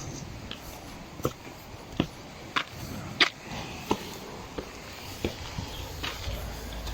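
Footsteps, a sharp step or scuff roughly every two-thirds of a second, over a faint outdoor hiss.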